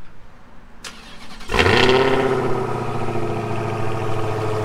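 Dodge Charger Hellcat's supercharged 6.2-litre HEMI V8 starting up. A faint click, then about a second and a half in the engine catches with a loud brief flare that settles into a steady idle.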